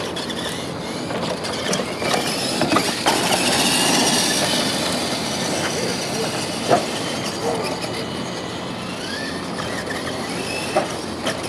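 Electric motors and gear trains of R/C monster trucks whining at high pitch, rising and falling as the throttle changes, with several sharp knocks from the trucks hitting the track or each other.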